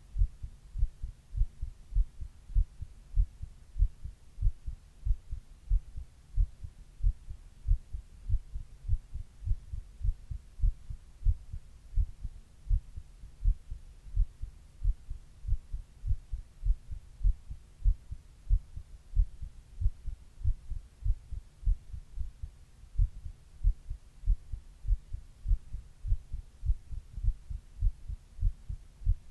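A human heart beating steadily at rest, each beat a low, dull thump that repeats evenly without a break.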